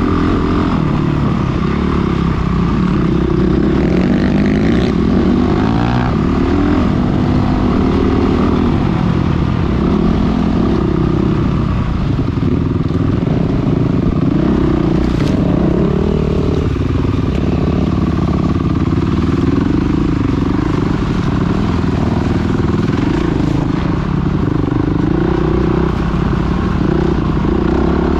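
Dirt bike engine running loud, its pitch rising and falling again and again as the throttle is opened and closed.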